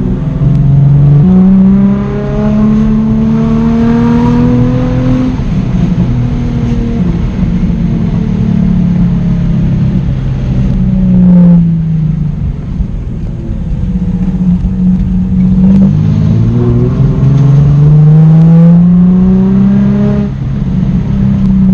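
Nissan 350Z's V6 engine accelerating hard through the gears: the revs climb, drop sharply at an upshift about a second in, climb again, ease off, then climb once more before another upshift near the end. The owner feels the engine is down on power.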